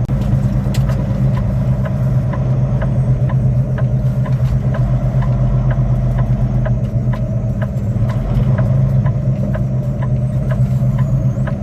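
Semi truck's diesel engine running steadily, heard from inside the cab, with a light regular ticking about twice a second.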